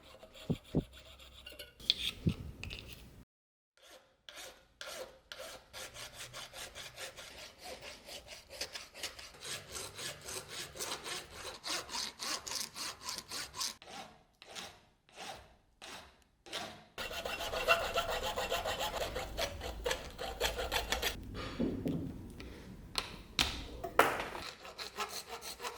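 Rhythmic back-and-forth rasping strokes of a hand tool working hard material, several strokes a second. It stops briefly about three seconds in and gets louder and coarser about two-thirds of the way through.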